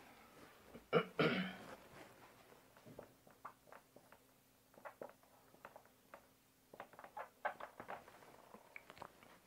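A man's short cough about a second in, then faint scattered clicks in a quiet small room.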